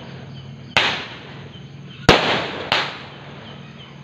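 Fireworks going off: three sharp bangs, about a second in, near the middle and just after, each trailing off briefly.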